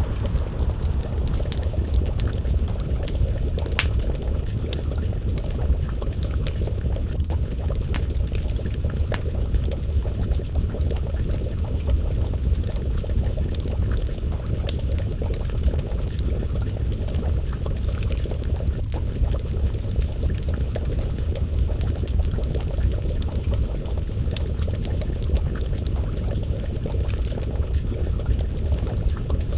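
Wood fire crackling with scattered sharp pops over a steady low rumble, and a pot of stew bubbling as it simmers over the flames.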